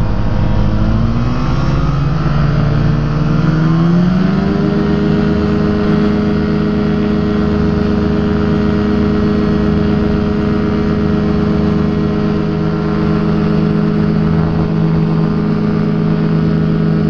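Rotax engine of a Quad City Challenger ultralight throttling up for takeoff: its pitch rises over the first four seconds or so, then holds steady at full power.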